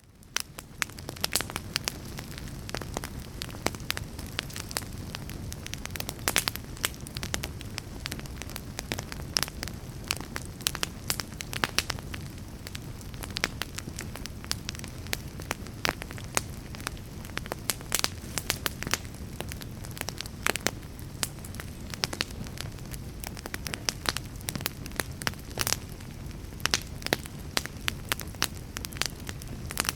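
Fire crackling: frequent sharp pops and snaps over a steady low rumble, fading in at the start.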